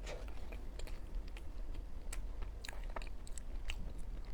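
Close-up chewing of a flaky-crust mooncake with salted egg yolk filling: quiet, irregular wet mouth clicks, a few a second.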